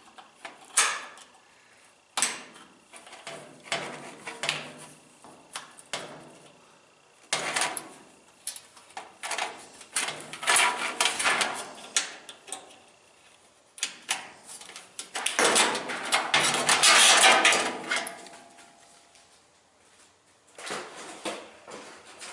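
Metal washer parts and hand tools clanking, knocking and scraping as a top-load washer is dismantled. Separate knocks come and go, with longer scraping rattles; the longest and loudest starts about fifteen seconds in and lasts a few seconds.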